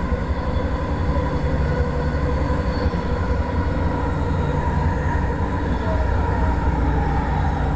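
Light-rail train running: a steady low rumble with faint steady tones above it.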